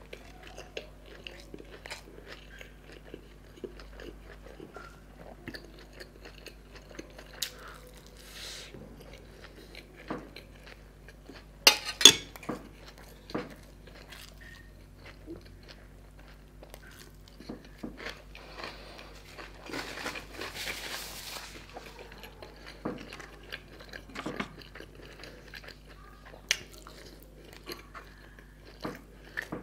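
Close-miked chewing and biting of food, with wet mouth sounds and small crunches throughout. A couple of loud sharp clicks come about twelve seconds in, with a faint steady hum underneath.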